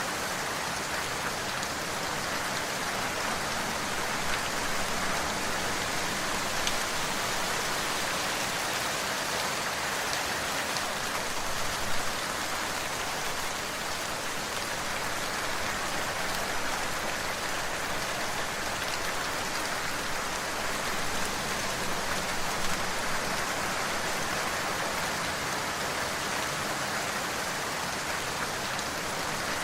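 Steady rain falling on a surface, an even hiss with scattered individual drop taps and an occasional louder drip.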